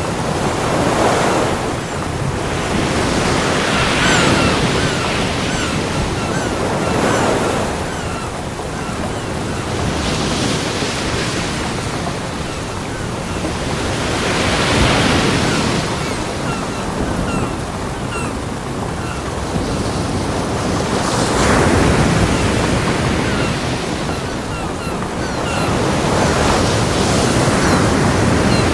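Ocean waves breaking on a beach: a continuous wash of surf that swells into a crash every few seconds and then falls back.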